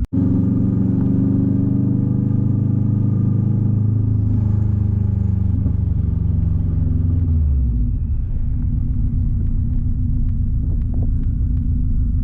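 Subaru wagon's turbocharged flat-four engine exhausting through an open 3-inch catless downpipe with no muffler, running loud and steady. About seven seconds in the engine note drops and settles into a lower, rougher rumble as the revs fall.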